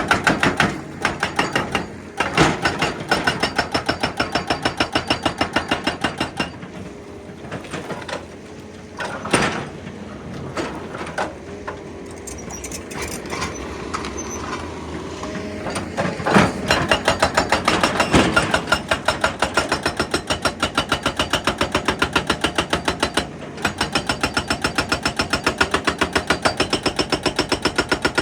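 Excavator-mounted hydraulic breaker hammering rock in rapid, regular blows, about three to four a second. It goes quieter and irregular for several seconds in the middle, then resumes at full rate.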